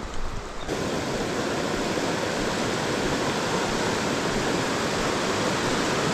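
Light rain pattering at first, then, less than a second in, an abrupt switch to the steady, dense rush of a fast-flowing creek.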